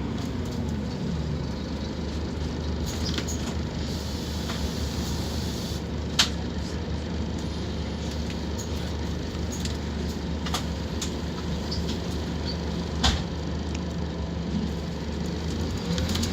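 Scania K230UB Omnilink bus's diesel engine idling steadily with a few sharp clicks, the loudest two about six and thirteen seconds in. A drivetrain whine falls away in the first second as the bus slows, and a rising whine near the end marks it pulling away again.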